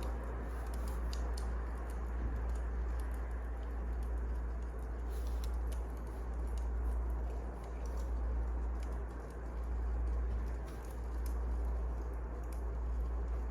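Wood fire crackling: scattered sharp snaps and pops over a steady hiss and low rumble.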